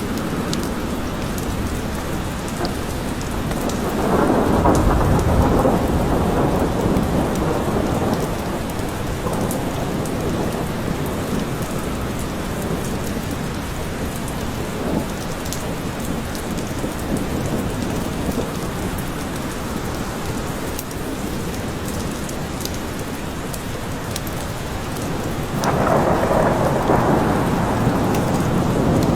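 Steady rain falling in a forest, with scattered drop ticks, and two rolls of thunder: one about four seconds in, another starting near the end.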